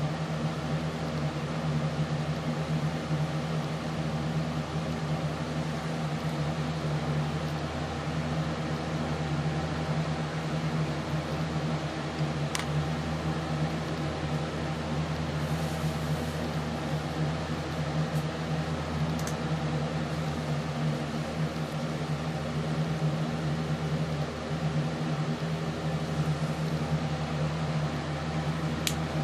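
Steady mechanical hum with a constant low drone, with a few faint ticks now and then.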